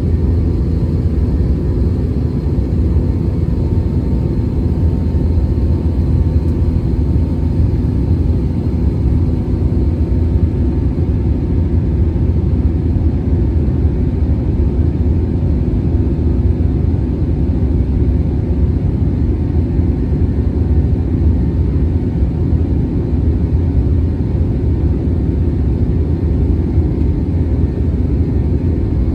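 Airbus A321 jet engines and airflow: a steady, loud rumble with faint steady hums on top, unchanging throughout.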